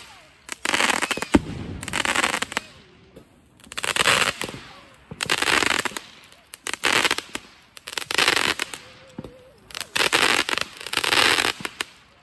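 Fireworks going off in a rapid series of crackling, hissing bursts about every second, with a sharp bang about a second and a half in.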